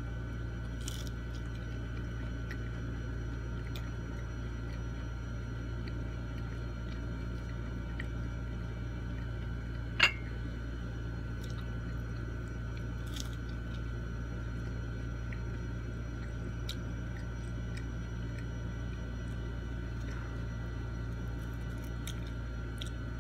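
Faint chewing and squelchy mouth sounds of someone eating chicken nuggets and fries, with scattered soft clicks and one sharp click about ten seconds in, over a steady low hum.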